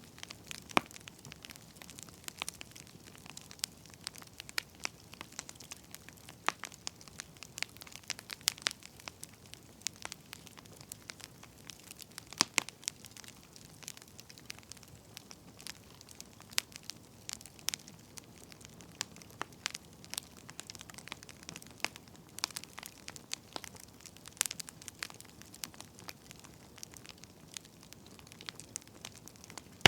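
Firewood burning: a log fire crackling with irregular sharp pops and snaps over a faint steady hiss.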